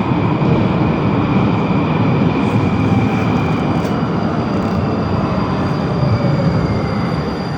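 Ermak metro train departing the station: a loud, steady rumble of wheels and running gear, with a faint high whine from the traction drive above it.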